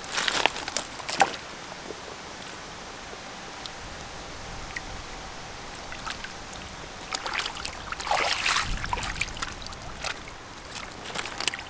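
Water splashing and sloshing a few times at the river's edge, over a steady hiss of flowing river water.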